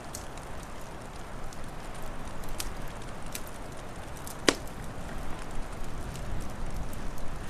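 Wood fire crackling: scattered sharp pops and snaps, one loud pop about halfway through, over a steady low rushing background.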